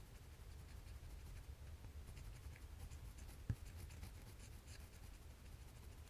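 Faint drawing strokes scratching on paper in short, quick bursts, with one light tap about three and a half seconds in.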